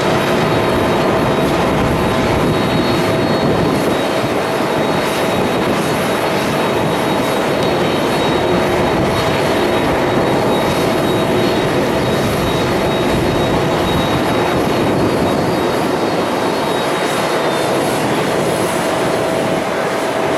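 Jet airliner's engines running: a loud, steady rush of noise with steady whining tones over it.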